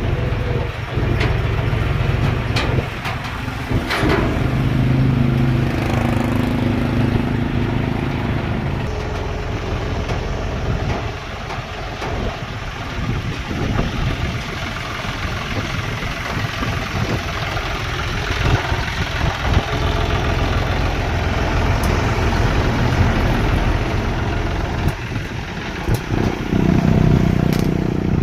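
Tractor engine running steadily, its note rising and falling with the throttle, with a few knocks and clatters early on.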